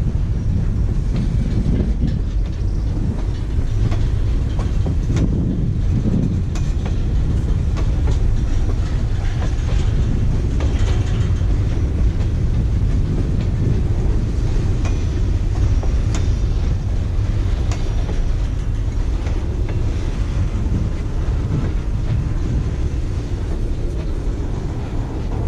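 Freight train cars rolling past, a steady low rumble with wheels clicking over the rail joints.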